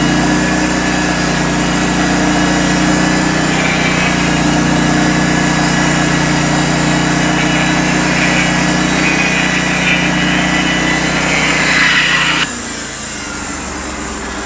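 Norwood LM29 portable bandsaw mill's 16 hp engine running under load as the band blade cuts through a log, with the cutting noise building over the last several seconds. About twelve and a half seconds in the engine drops suddenly to a lower, quieter run as the board cut finishes.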